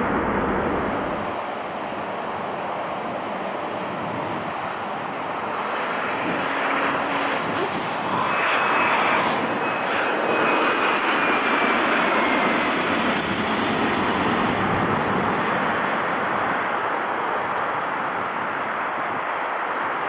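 Jet airliner engines passing close by: a steady rush that swells about eight seconds in, with a hiss and a faint whine that falls slightly in pitch, then eases back.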